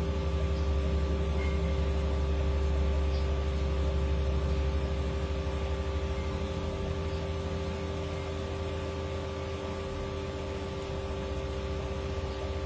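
Steady low mechanical hum with a few steady tones over it, unchanging throughout.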